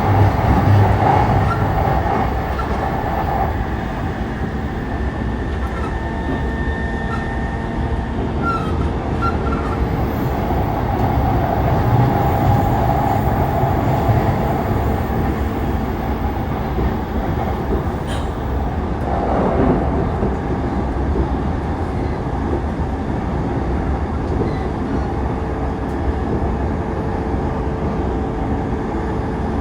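Interior running noise of a JR East E233-3000 series electric train between stations: a steady rumble of wheels on rail with a steady hum underneath.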